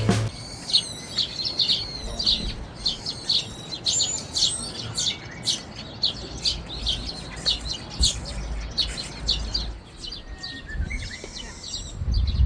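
Songbirds chirping: a rapid string of short, high chirps that keeps going the whole time, over a low steady rumble.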